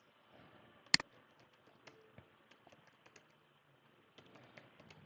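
Clicks at a computer: one sharp click about a second in, then light, irregular keyboard taps.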